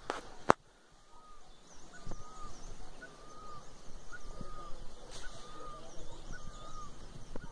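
A bird calling over and over in short, evenly spaced notes, about two a second, with fainter high chirps of other birds above it. Two sharp clicks in the first half second are the loudest sounds.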